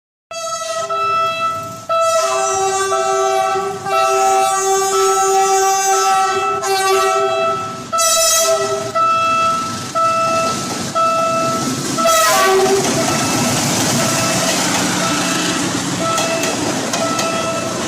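Philippine National Railways commuter train sounding its multi-tone horn in a long series of blasts, some short and some held for a couple of seconds. About twelve seconds in, the rushing noise of the train passing the crossing comes up under the horn, which keeps giving short blasts.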